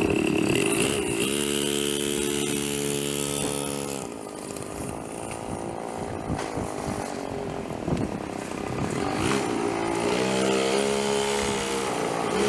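Motorcycle engine running as the bike rides by at a steady pitch, loud in the first few seconds, fading away in the middle and coming back near the end.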